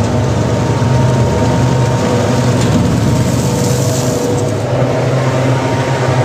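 Crusher machine running at a steady speed: a loud, even engine drone with a constant hum.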